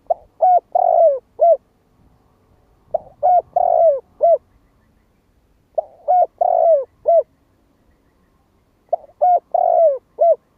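Spotted dove cooing: four identical phrases about three seconds apart, each a few short coos around one longer drawn-out coo, ending in a short falling note. This is the male's call, used here as a lure call to draw in wild spotted doves.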